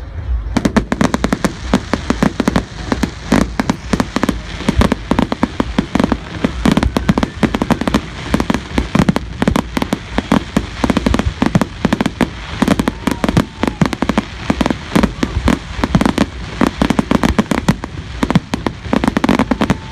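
Fireworks display: a rapid, unbroken barrage of sharp bangs and crackles, starting about half a second in, with a faint whistle now and then.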